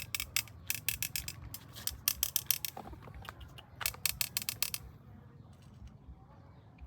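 Rapid sharp clicking and crackling in dense clusters, which stops about five seconds in.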